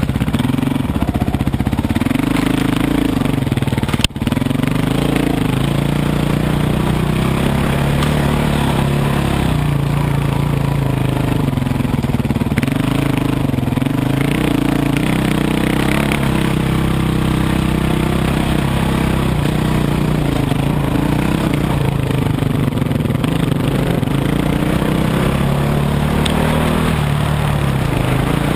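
Dirt bike engine running while riding, its revs rising and falling with the throttle. A single sharp click about four seconds in.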